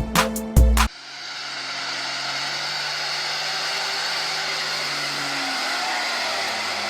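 Music with a heavy beat cuts off about a second in, followed by a vehicle engine running steadily under a loud hiss of noise.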